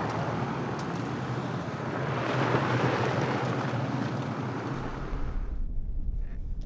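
Truck driving on a gravel road: steady tyre and wind noise that swells and eases. About five seconds in it gives way to a quieter, low engine rumble.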